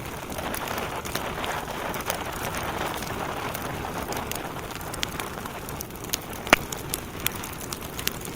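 Wood logs burning in a fireplace: a steady hiss of flames with frequent sharp crackles and pops. The loudest pop comes about six and a half seconds in.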